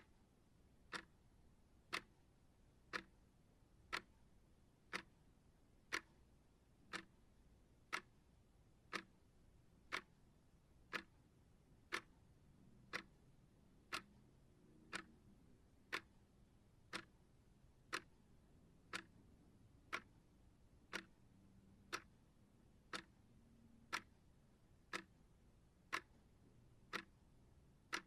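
Clock ticking steadily, one sharp tick a second, alternating slightly louder and softer like a tick-tock.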